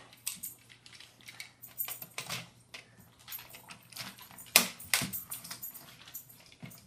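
Hard plastic toy parts of a Power Rangers Gokai Megazord clicking and clattering as the figure is handled and its pieces fitted together, with a sharp click about four and a half seconds in and another half a second later.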